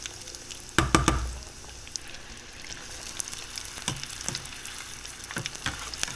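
Breadcrumbed Scotch eggs deep-frying in hot oil, a steady sizzle. A loud clank with a short ring comes about a second in, and a few lighter knocks follow later.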